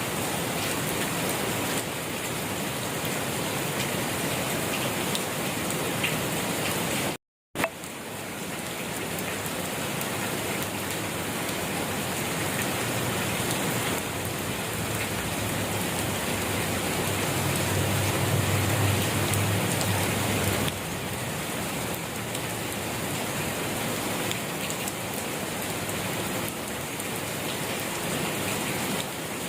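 Steady rain falling, an even hiss of dense patter. The sound cuts out completely for a moment about a quarter of the way in, and a low rumble swells under the rain past the middle.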